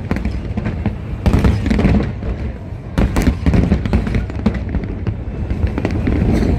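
A fireworks display: shells bursting overhead in a rapid, irregular barrage of bangs and crackles over a continuous low rumble, with the heaviest volleys about a second in and again about three seconds in.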